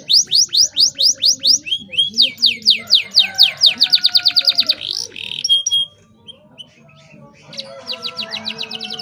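Domestic canary singing in fast trills of repeated high sweeping notes, the rolls speeding up about three seconds in. It breaks off for a moment around six seconds in, then starts another rapid trill.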